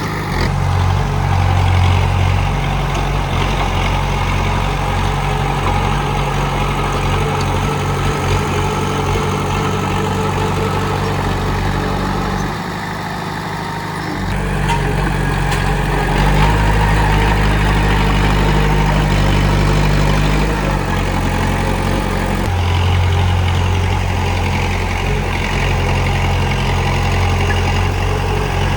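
Komatsu D31P bulldozer's diesel engine running steadily, easing off briefly just before halfway through, then picking up again.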